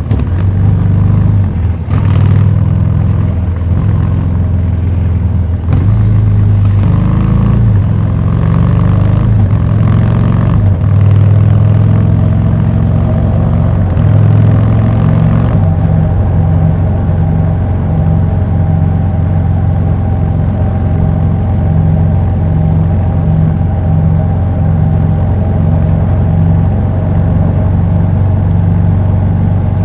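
Harley-Davidson Street 750's V-twin running through a Vance & Hines slip-on exhaust, its pitch rising and falling through the first half, then running steadily from about halfway with a regular pulse.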